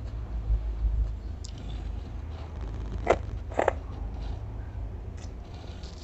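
Eating sounds: a spoonful of stir-fried crab roe being chewed, with two short, sharp mouth smacks about three seconds in.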